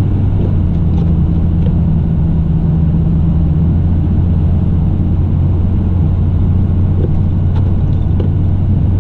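Pickup truck's engine and road noise heard from inside the cab, a steady low drone while the truck creeps along at walking pace in snow behind plow trucks.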